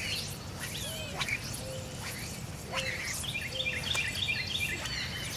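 Wild birds calling: scattered chirps, then a quick run of about seven repeated chirps, around four a second, starting a little after three seconds in.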